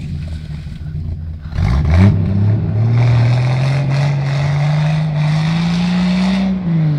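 Suzuki Jimny's engine working off-road: a short rev blip about a second and a half in, then the engine note climbing steadily under load for about four seconds before dropping off near the end.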